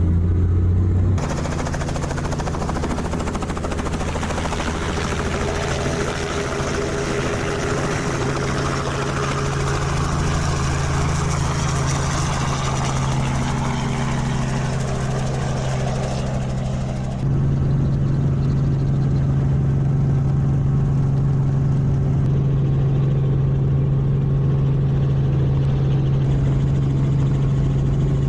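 Sightseeing helicopter in flight, heard from inside the cabin: a steady low drone of engine and rotor. The sound changes abruptly about a second in and again about two-thirds of the way through.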